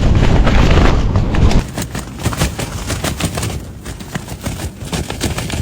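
Gale-force wind buffeting the microphone, with tent fabric flapping and cracking in rapid snaps. The gust is loudest for about the first second and a half, then eases a little while the flapping goes on.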